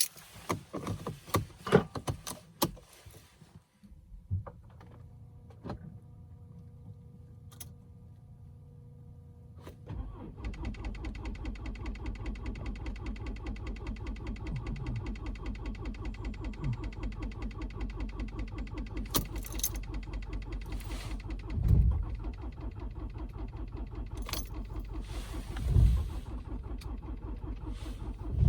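A few clicks, then a quiet steady electrical hum with the ignition on. About ten seconds in, the starter of a Mercedes-Benz C220 CDI (W204) four-cylinder diesel begins cranking with an even rhythmic churn that goes on for many seconds, with a few louder thumps near the end. It is a long, hard cold start at −15 °C.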